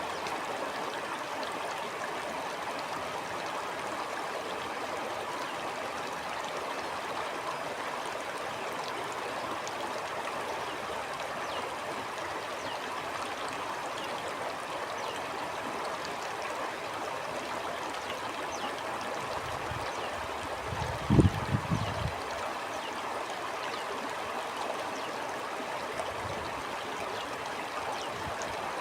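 Stream flowing steadily over stones, a constant rushing and trickling. About three-quarters of the way through, a short cluster of low thumps rises briefly above the water.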